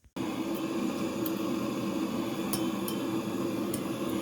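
Gas burner lit and running with a steady roar, starting abruptly just after the start and aimed into the brick firebox of a newly built bell-type stove, with a few light ticks.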